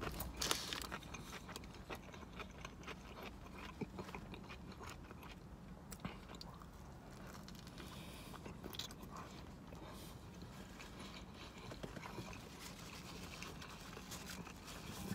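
Faint close-up chewing of a mouthful of toasted meatball sub on a garlic bread roll, with a few short mouth clicks scattered through.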